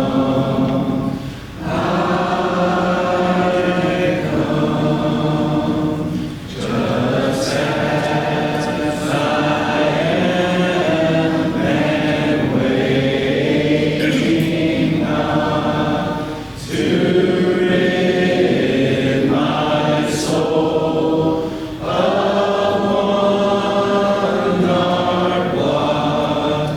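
A congregation singing a hymn a cappella, line by line, with brief pauses for breath between phrases.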